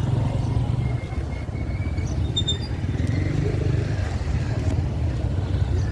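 Motorcycle engine running steadily, a low rumble.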